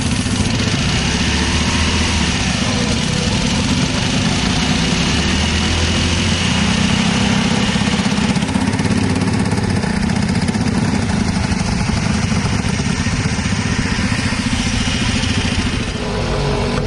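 A motorcycle engine running loudly at a steady pace, its tone shifting about eight seconds in.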